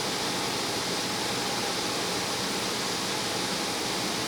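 Steady hiss of water spraying onto the car from the Vector automatic car wash's rinse nozzles, heard from inside the car, with a faint steady hum under it.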